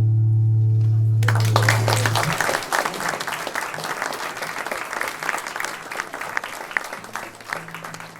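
The band's last chord is held and cut off about two seconds in. The audience starts applauding just over a second in, and the clapping thins out toward the end.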